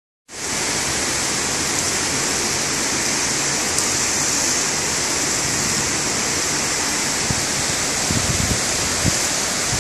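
Heavy monsoon rain pouring down, a steady hiss, with a few low thumps about eight seconds in.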